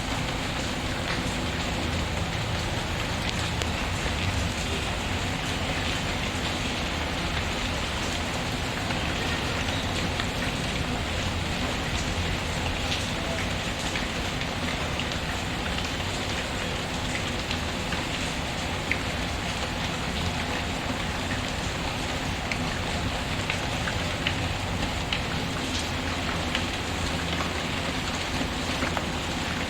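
Steady rain pattering, mixed with the faint scattered crackle of a wood fire.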